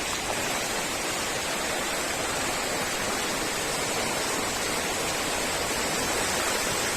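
Steady rush of fast-flowing floodwater, an even noise without breaks.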